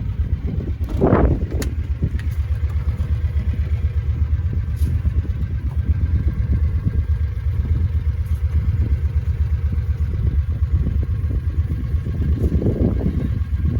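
Vehicle engine running steadily with a fast low throb. It swells briefly louder about a second in and again near the end.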